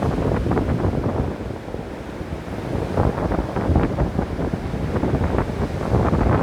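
Ocean surf washing on a beach: a dense low rush of water with a crackling fizz. It eases off about a second and a half in, then builds again about three seconds in.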